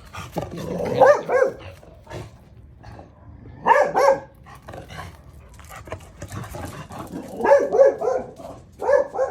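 A dog barking in short clusters of barks: about a second in, again about four seconds in, and twice more near the end.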